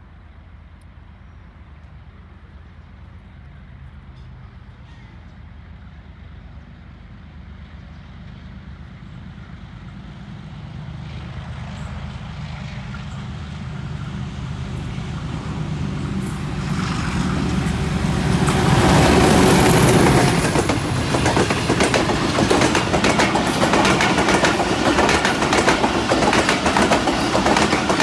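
Pakistan Railways HBU-20 diesel-electric locomotive hauling a passenger express, approaching with its engine running and growing steadily louder, loudest as it passes about two-thirds of the way in. Its coaches then roll by with a rapid clickety-clack of wheels over the rail joints.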